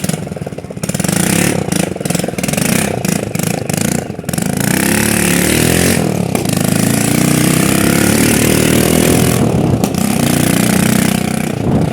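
Hero Honda motorcycle's single-cylinder engine running with its silencer pipe fallen off, so the open exhaust is loud, a big disturbing noise like a dirt bike. A few short throttle blips, then the engine is revved up and held there for several seconds, easing off briefly twice.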